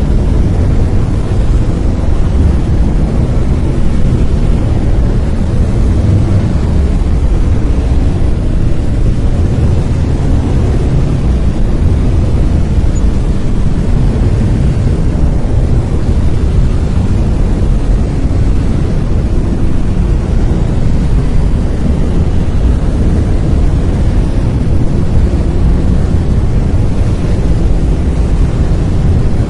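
Brown noise: a steady, loud, deep rumbling hiss with most of its energy in the low end and little in the highs.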